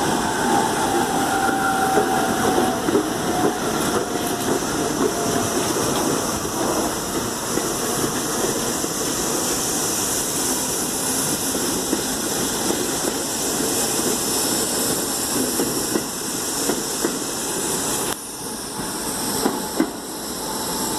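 New York City subway train running through the station, a steady rumble and hiss of wheels on rail, with a faint whine that fades out in the first few seconds.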